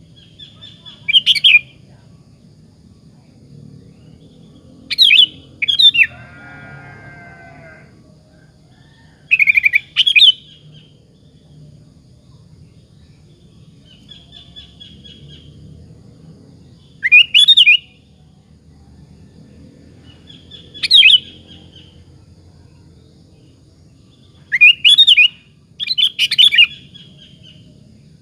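Sooty-headed bulbul singing: loud, short, bubbly whistled phrases every few seconds, with softer chattering notes between them. A few seconds in, a lower, buzzy call lasts about two seconds.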